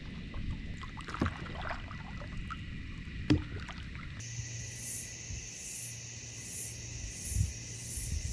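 Knocks and clicks of gear on a kayak hull, with one sharp knock about three seconds in. From about four seconds in, a steady high-pitched buzz starts suddenly and pulses about one and a half times a second, with a low hum under it.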